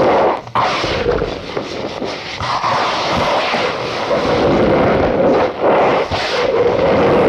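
Cornstarch powder squeezed and crushed by hand: a dense squeaky crunching that goes on almost without a break, with a few short dips.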